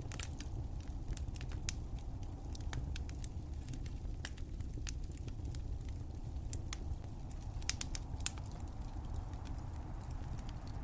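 Wood fire crackling in a fireplace: irregular sharp pops and snaps over a steady low rumble, with a quick cluster of pops about three-quarters of the way through.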